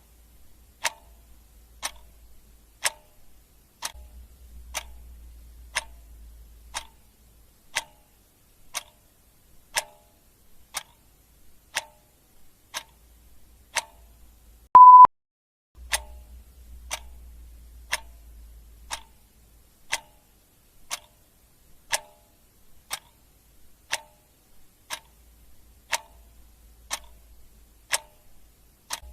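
Clock ticking about once a second. About halfway through, a single short, loud, high beep sounds.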